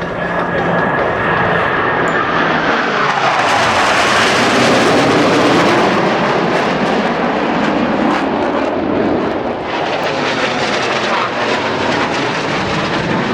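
Blue Angels F/A-18 Hornet jets flying past during break turns. The jet noise swells to its loudest a few seconds in, and its pitch falls as each jet goes by.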